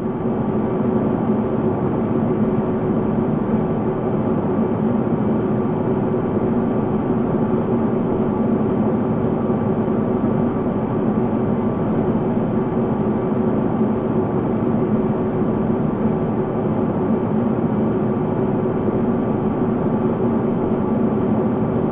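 Synthesized 'space sound' drone: a steady, dense rushing noise with a few held low and middle tones underneath, unchanging throughout.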